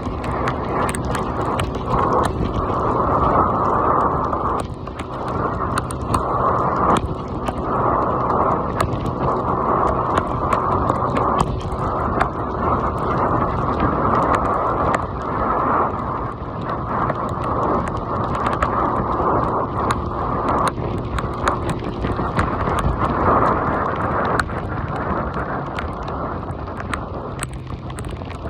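Heavy rain falling: a steady rushing noise with many small taps of drops striking close to the microphone.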